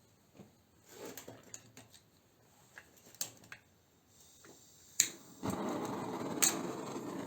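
Small clicks and knocks of parts being handled, then a sharp click about five seconds in and a gas torch flame starting a steady hiss half a second later, running on for the soldering of a fitting onto a compressor pipe.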